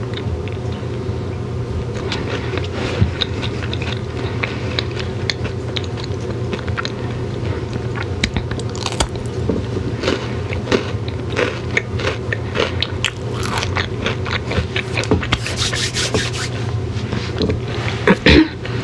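Close-miked chewing of candy: many short clicks and crunches from the mouth over a steady low hum. Near the end comes a brief louder rustle as a clear plastic wrapper is handled.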